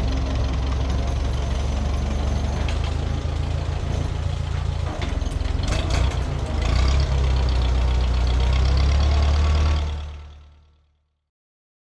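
Bolens HT-23 garden tractor's 23 hp opposed-twin K582 engine running steadily, with a few clicks around the middle. It gets louder a little after halfway and fades away near the end.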